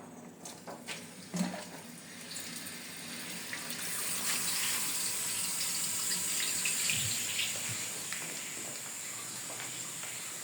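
Water running and splashing steadily into a container, building up over the first few seconds.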